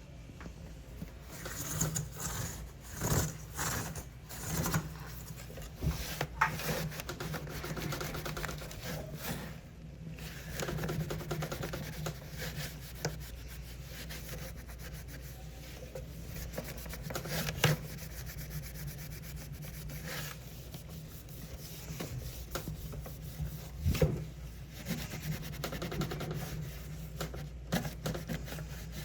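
Hand-wiping and scrubbing inside a mini fridge: irregular rubbing strokes, with a few louder knocks against the fridge.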